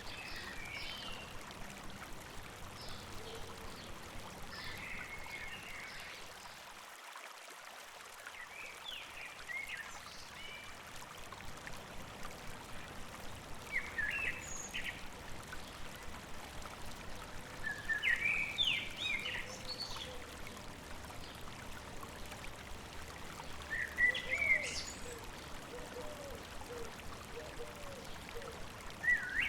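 A songbird sings short, quick chirping phrases every few seconds over the steady rush of a flowing stream.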